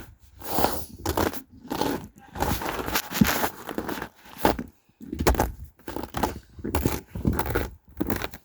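Footsteps crunching on icy ground while walking, a crunch roughly every two-thirds of a second.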